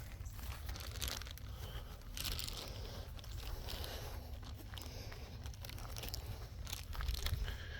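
Irregular crunching and crackling of dry leaves and brush underfoot, as of someone walking through undergrowth, over a steady low rumble.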